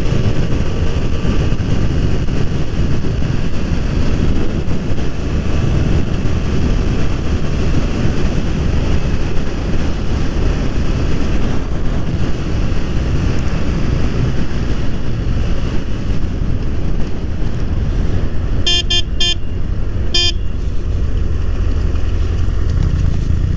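A BMW F 800 R's parallel-twin engine running under way, mixed with steady wind noise on the mounted camera. About three-quarters of the way through, a vehicle horn gives three short beeps.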